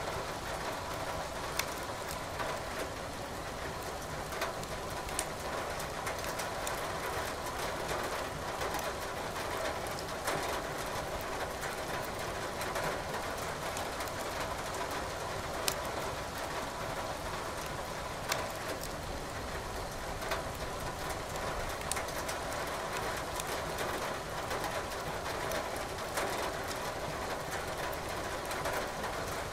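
Steady hiss of rain with a wood fire crackling in a fireplace, sharp single pops every few seconds at irregular intervals.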